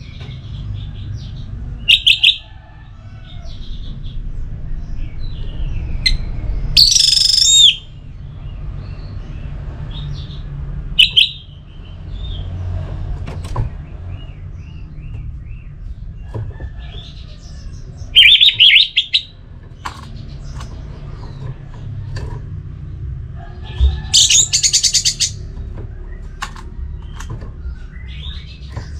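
Orange-headed thrush singing in short loud bursts of rapid high notes, about five of them spread through the stretch, with quieter calls in between, over a steady low hum.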